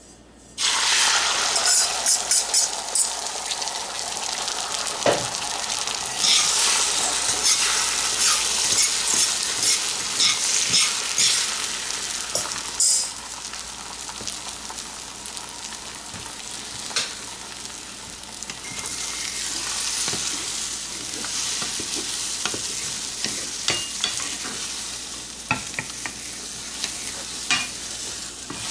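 Beaten eggs hitting a smoking-hot oiled cast iron pan and sizzling hard, starting suddenly about half a second in, loudest for the first dozen seconds and then easing off, with the clicks and scrapes of a spatula stirring the eggs. The pan was hotter than the cook wants, smoking when the eggs went in.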